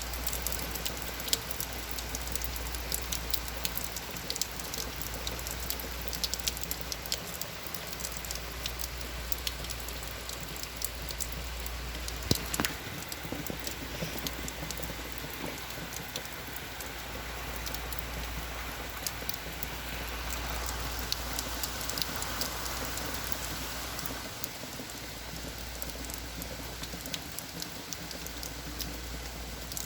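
A bad rainstorm heard through an open front door: a steady hiss of falling rain with many sharp drop hits. One louder tap stands out about twelve seconds in.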